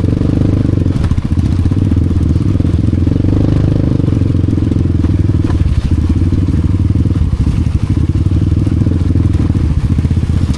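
Honda Wave 125 motorcycle's single-cylinder four-stroke engine running steadily at low revs.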